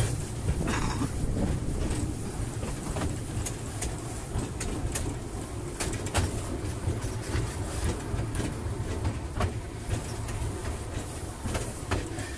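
Narrow-gauge train running along the track, heard from aboard: a steady low rumble with irregular clicks and knocks from the wheels over the rails.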